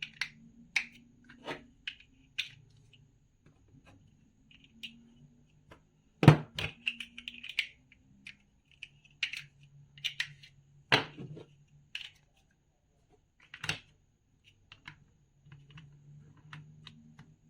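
Plastic toy building bricks being handled and pressed together: irregular sharp clicks and clacks, with louder knocks about six, eleven and fourteen seconds in.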